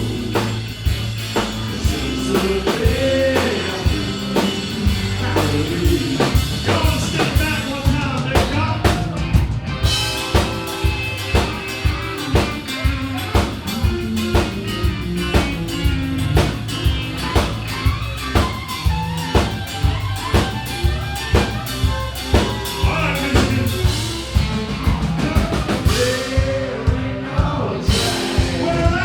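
Live band with a drum kit and vocals playing a song, the drums keeping a steady beat of about two hits a second.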